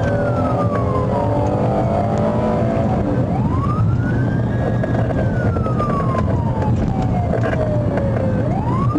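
Police car siren on a slow wail, gliding down, back up and down again, over steady engine and road noise from a car driving at speed in a pursuit.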